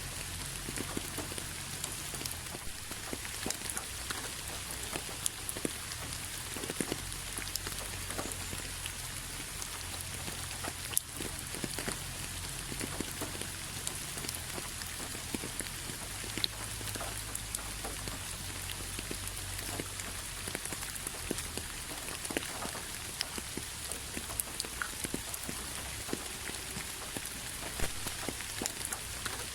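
Steady rain falling on a hard surface: a constant hiss with many separate drops tapping sharply here and there.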